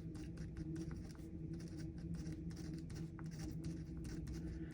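Writing on paper: a series of short scratchy strokes, over a steady low hum.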